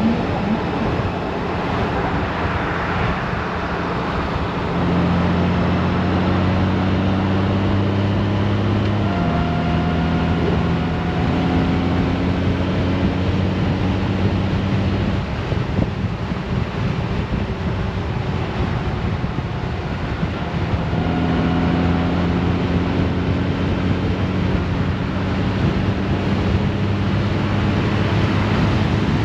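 Honda Gold Wing's flat-six engine running at road speed under a steady rush of wind over the microphone. The engine note comes up about five seconds in, drops in pitch once about nine seconds in, fades in the middle and comes back about two-thirds of the way through.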